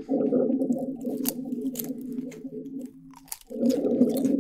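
Close, exaggerated chewing and crunching of a crunchy chip, with sharp crunches about a second in, near two seconds and twice near the end. Beneath them runs a dense, low, continuous layer of sound that drops out briefly about three seconds in.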